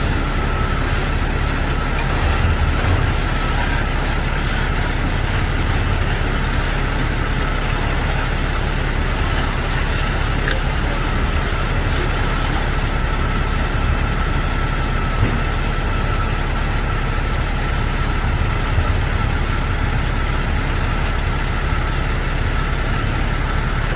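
Truck engine idling steadily: a low rumble with a thin steady whine above it.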